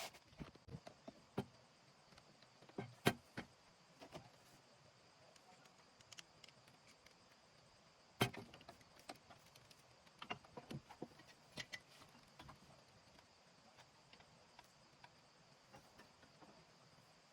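Scattered faint clicks and clanks of hands-on work, with two sharper knocks about three and eight seconds in.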